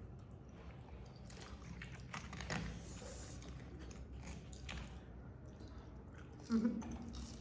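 Close-up eating sounds: a person chewing and biting food, with scattered soft, wet clicks.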